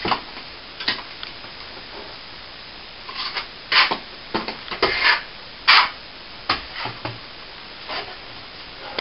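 Short scraping and rubbing strokes of a plastering tool working render mix, most of them bunched together in the middle of the stretch.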